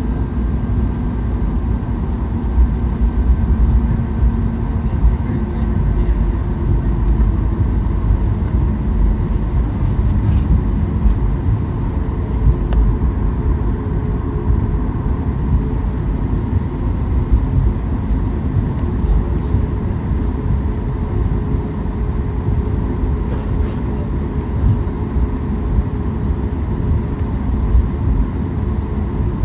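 Cabin noise inside a Boeing 737 MAX 8 taxiing after landing: a steady low rumble from the idling CFM LEAP-1B engines and the airframe rolling, with faint steady tones over it.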